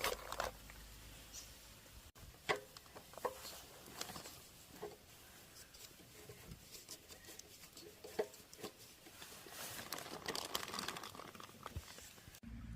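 Scattered light clicks and taps with some rustling, a few sharper knocks standing out.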